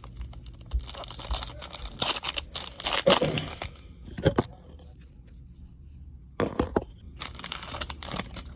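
Foil trading-card pack wrapper and cards being handled, a crinkling, tearing rustle. It comes in two spells with a quieter pause of about two seconds between them.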